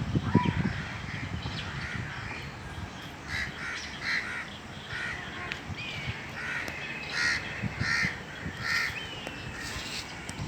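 A bird calling over and over in a run of short calls, with a few low thumps at the very start.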